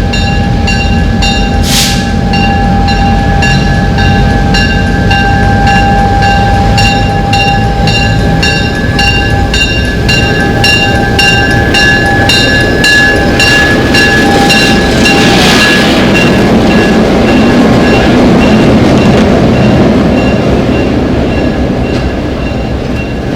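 Excursion passenger train rolling along the rails, with a steady rumble and an even clicking of wheels over rail joints. A steady high-pitched tone rides over it and fades out a little past halfway.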